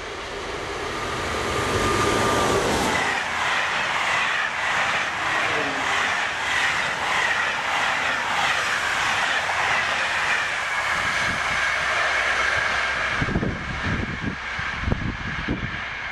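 Passenger train on an electrified main line approaching and passing close at high speed: the sound rises over the first two seconds into a loud, steady rush of wheels and air with a high whine running through it. Near the end, as the last coach goes by, gusts of its wake buffet the microphone.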